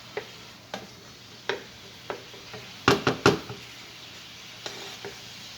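Sliced onions and bell peppers sizzling softly in a pan while being stirred, with scattered knocks and scrapes of the stirring utensil against the pan; the loudest is a quick run of three knocks about halfway through.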